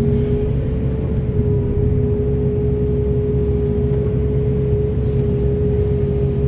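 Heavy diesel excavator engine running steadily, with a low rumble and a constant high whine over it.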